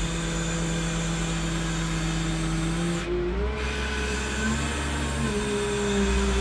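W20F wheel loader's engine running loud inside the operator's cab, as if the engine were in the cab itself. Its note steps up in pitch about three seconds in and again a little after five seconds as the engine speeds up.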